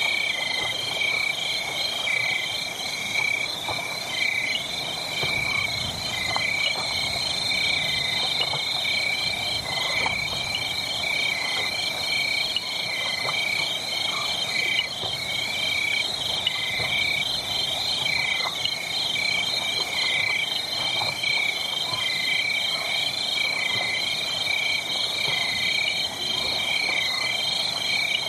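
A steady chorus of rhythmically pulsing, chirping animal calls, with soft, irregular fire crackles beneath.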